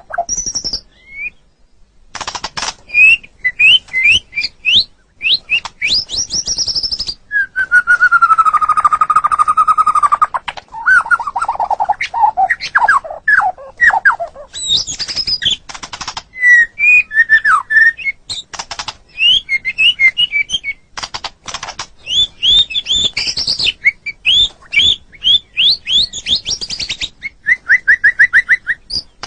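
White-rumped shama (murai batu) singing loudly and continuously: quick runs of whistled notes, rapid trills and chatter, with a long held whistle in the middle followed by a series of falling notes.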